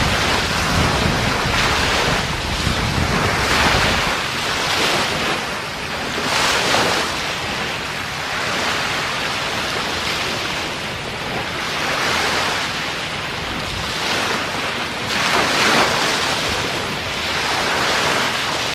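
Ocean surf breaking on a beach, a steady wash of water that swells and falls back every few seconds, with the biggest surges about 3, 6 and 15 seconds in. Wind rumbles on the microphone, most strongly over the first few seconds.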